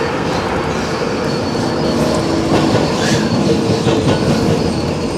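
Car-shuttle train running along the track: a steady, loud running noise of the wagons on the rails, with a few faint clicks of the wheels, heard from a vehicle carried on board.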